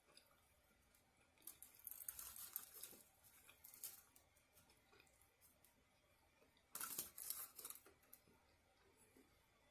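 Faint crackling, tearing sounds of food being handled and eaten, in short bursts: a longer run about two seconds in and a louder one about seven seconds in.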